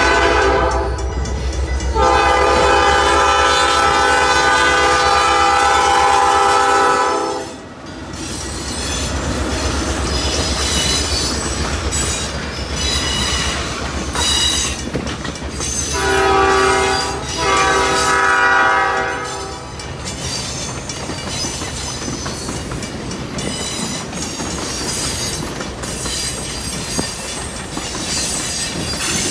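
Diesel locomotive horn blowing for a grade crossing: the tail of one blast at the start, a long blast, then a short and a long blast about ten seconds later. Between and after the blasts the passenger train rumbles past, its wheels clattering over the rails.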